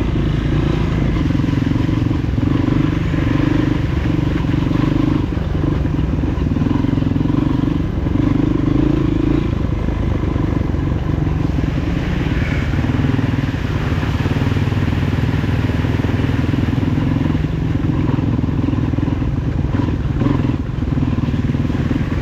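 Honda CRF230F trail bike's single-cylinder four-stroke engine running under way, its note swelling and easing again and again.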